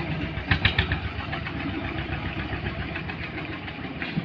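An engine running steadily with a low, pulsing rumble, with a few short sharp knocks or clatters between about half a second and one second in.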